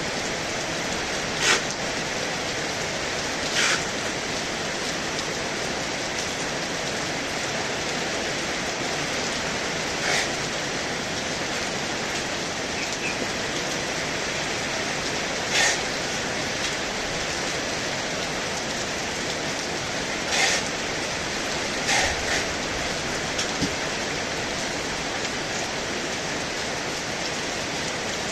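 Heavy rain falling steadily, with a few brief, sharper taps of heavier drops standing out now and then.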